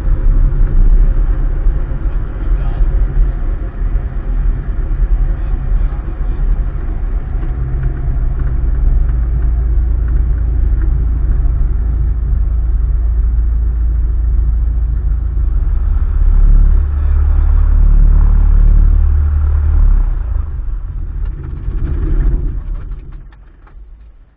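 Cessna 152's four-cylinder Lycoming engine and propeller, a steady low drone as heard in the cabin, fading out over the last few seconds.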